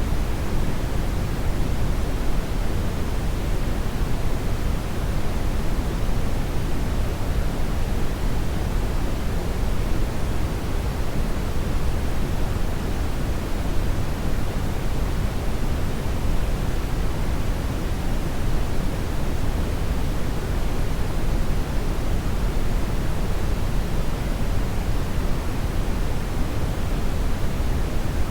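Hair dryer running continuously, a steady, even rush of air with most of its weight low and no change in speed.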